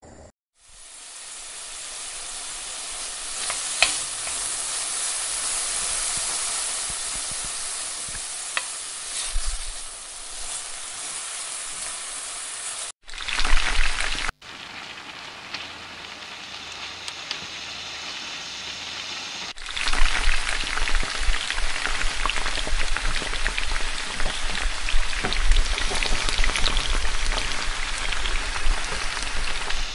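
Cooking oil sizzling in a large aluminium kadai: a steady hiss, then, from about twenty seconds in, a louder crackling sizzle of sliced onions frying as they are stirred.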